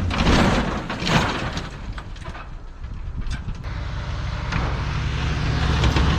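A vehicle's engine running as it drives, with rushing bursts of noise in the first second or so. It falls away in the middle and builds again near the end.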